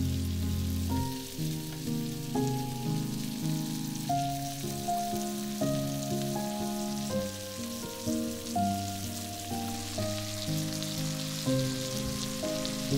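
Flour-coated beef cubes and melting butter frying in hot oil in a non-stick wok: a steady sizzle with fine crackling that grows a little stronger near the end. Soft background music plays throughout.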